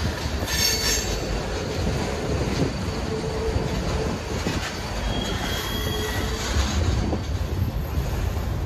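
Norfolk Southern freight train's cars rolling past close by: a steady low rumble of wheels on rail, with thin squeals from the wheels coming and going.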